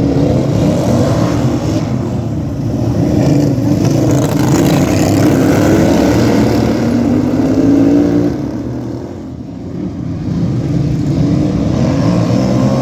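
Racing lawn tractors' small engines running and revving on the track, several pitches overlapping. The sound drops off about eight and a half seconds in and rises again a second or so later.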